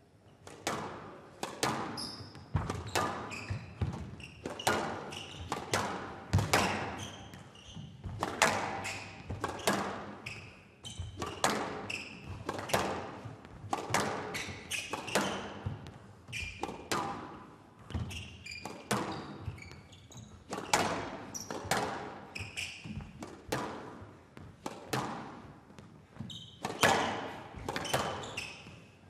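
Squash rally: the ball cracking off rackets and walls, about one to two hits a second, each with a short echo, and short high squeaks between the hits.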